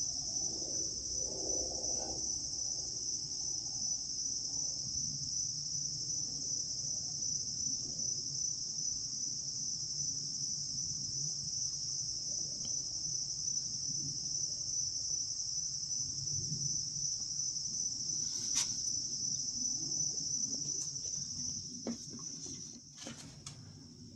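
Chorus of insects trilling in one steady, high-pitched drone that fades away near the end.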